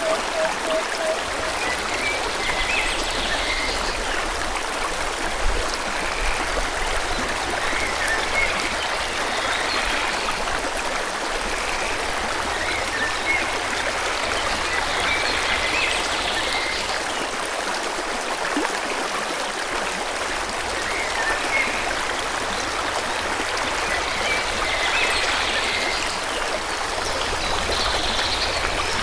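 Forest stream running with a steady rush of water, with small birds chirping now and then above it. A short run of repeated lower notes comes right at the start.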